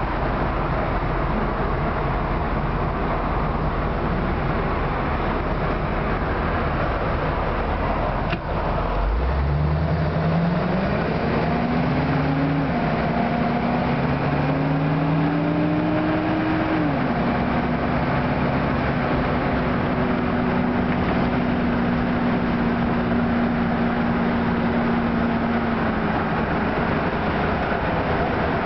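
Chevrolet 350 small-block V8 in a 1954 Corvette roadster, heard from the open cockpit. It idles for about nine seconds, then pulls away with a rising engine note. The note drops twice as the Turbo 350 automatic shifts up, then settles into a steady cruise.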